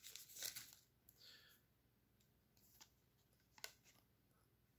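Mostly near silence. A pack wrapper's crinkle dies away in the first second, followed by faint rustles and a few soft clicks of trading cards being handled, the clearest about three and a half seconds in.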